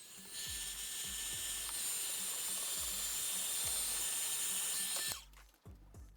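A small electric tool runs steadily with a high whine and hiss, cutting off suddenly about five seconds in.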